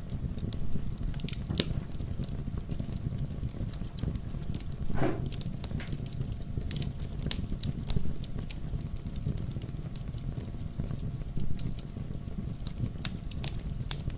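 Wood fire crackling, with frequent sharp pops over a steady low rumble. About five seconds in there is a short whistle that falls in pitch.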